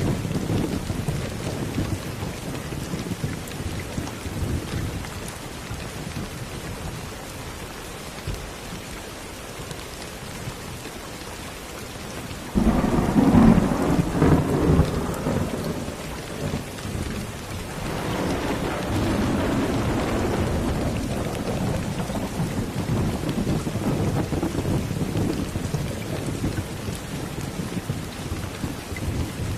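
Steady rain with thunder rumbling. About halfway through a thunderclap starts suddenly and loudly, and a few seconds later another rolling rumble follows before it fades back to the rain.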